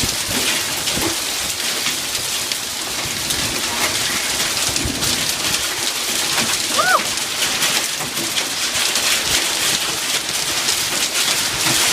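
Hail pelting down: a dense, steady patter of countless small impacts. A short rising-and-falling call sounds about seven seconds in.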